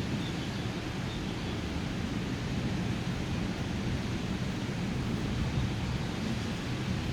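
Heavy rain pouring steadily in a thunderstorm, an even rushing noise with a low rumble underneath.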